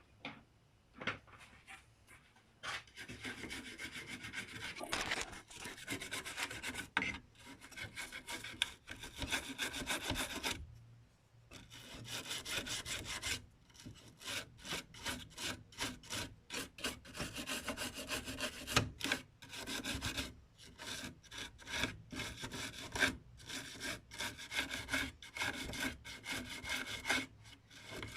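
Small brush dipped in thinner scrubbing corrosion off the contacts of a flat ribbon-cable connector on a circuit board, in quick repeated scratchy strokes with a short pause about eleven seconds in.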